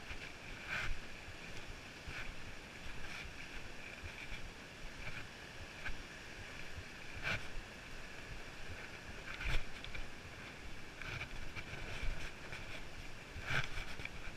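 Footsteps of a hiker walking up a rocky trail, an uneven step or knock every second or two, with a steady hiss of wind on the microphone.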